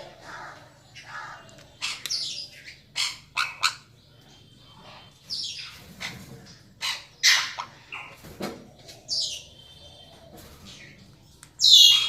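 Parrots squawking and screeching in a string of short, sharp, high calls, the loudest near the end.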